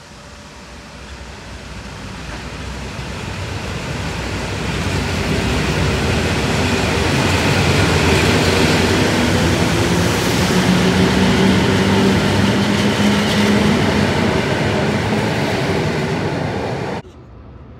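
ED72 electric multiple unit approaching and running past along the platform. Its wheels rumble on the rails over a steady low hum, growing louder over the first eight seconds and then holding loud. The sound cuts off abruptly about a second before the end.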